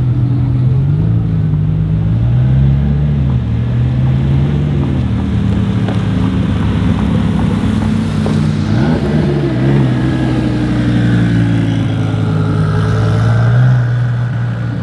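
Twin-turbo Audi R8 V10 Plus's V10 engine idling, with several short revs in the first five seconds, then a steady idle as the car rolls slowly forward.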